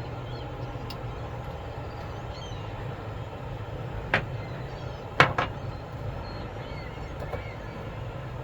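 Coffee being scooped into a percolator pot: two sharp knocks, about four and five seconds in, over a steady low hum.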